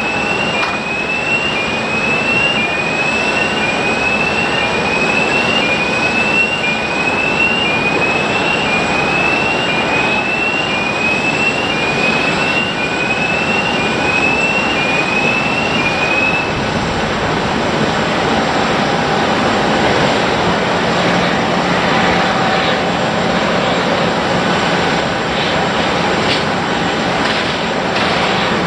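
Loud, steady jet engine noise of airliners. A short rising chirp repeats about once a second until about two-thirds of the way through, and a steadier engine hum comes in near the end.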